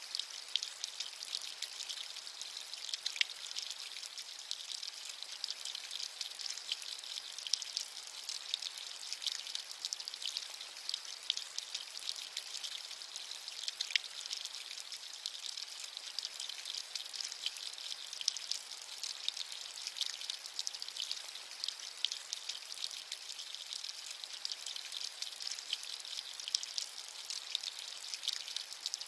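Steady rain, a dense high-pitched patter of countless small drops crackling over a constant hiss, with no low rumble or thunder.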